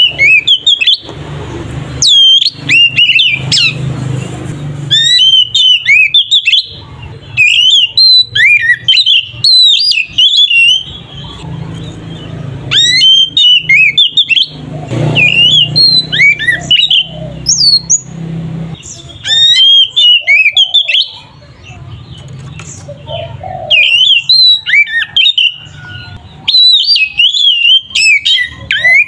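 Oriental magpie-robin (kacer) singing loud, varied whistled phrases of quick up-and-down notes, in bursts of a second or two with short pauses between them.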